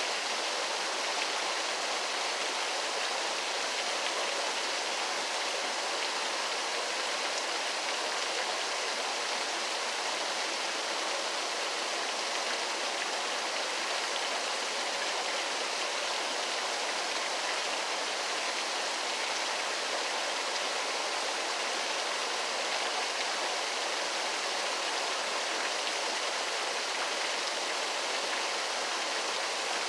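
Waterfall: falling water rushing steadily and evenly, with a bright hiss and little deep rumble.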